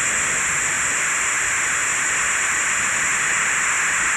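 Steady static hiss from a Ghost Tube spirit-box app, running evenly with no words or sudden sounds in it.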